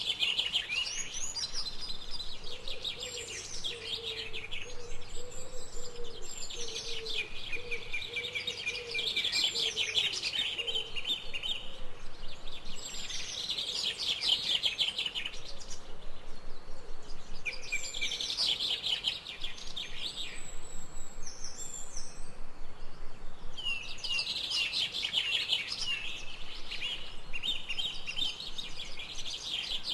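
Forest birds singing in quick chirping phrases that come and go with short pauses, over a low wavering note during the first third.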